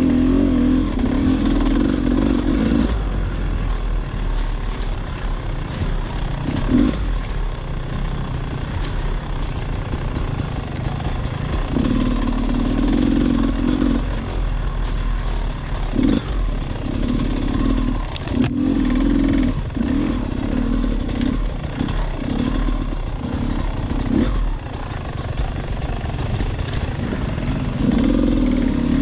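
Dirt bike engine running on and off the throttle in repeated spurts, with clattering over rough ground.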